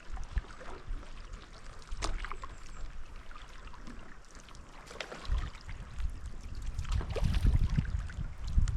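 A paddle dipping into river water, with splashing and trickling from a stand-up paddleboard stroke. Wind rumbles on the microphone, growing stronger about halfway through.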